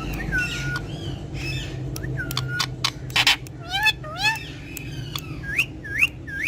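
Talking parrot chattering and calling: a string of short rising whistled notes, mixed with some speech-like chatter and a few sharp clicks.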